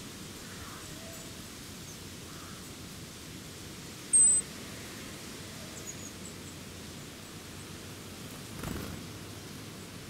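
Outdoor woodland ambience with a steady hiss; about four seconds in, a single short, very high, thin bird call, the loudest sound. Faint high chirps follow, and near the end a brief soft rustle.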